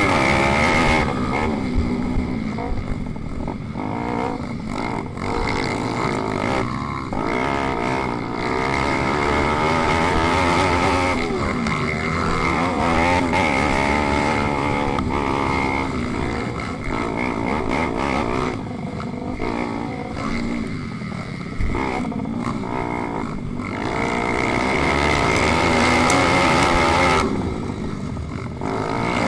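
Pit bike's single-cylinder four-stroke engine racing, revving up and falling off again and again with throttle changes and gear shifts.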